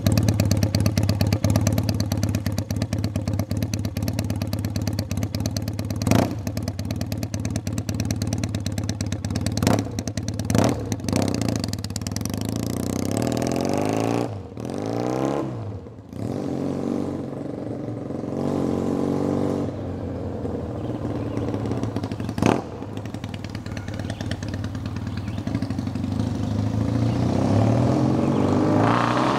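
Honda CB400 motorcycle engine running through a straight-pipe exhaust, loud and raw. It idles steadily at first, then the revs rise and fall. A few sharp cracks stand out over the engine.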